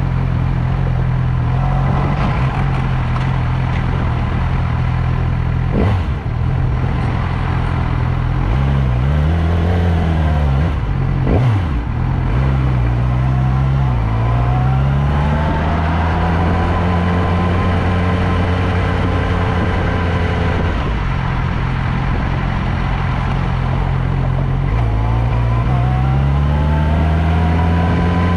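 Motorcycle engine running under way, its pitch rising several times as it accelerates and shifts. There are two brief sharp knocks, about six and eleven seconds in.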